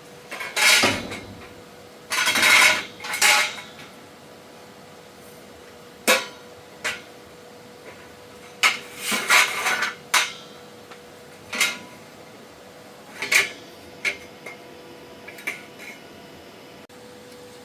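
Pieces of iron or steel clanking and knocking against each other at irregular intervals, in a handful of clusters, with a faint steady hum underneath.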